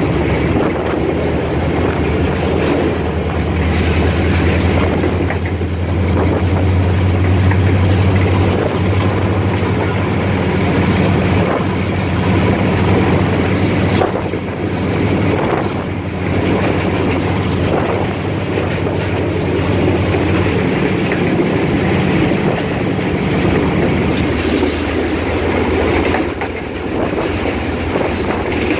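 Diesel locomotive running with the train under way: a steady deep engine hum over a rumble, with wheels clicking over the rail joints. The deepest part of the hum drops away about 21 seconds in and thins further near 24 seconds.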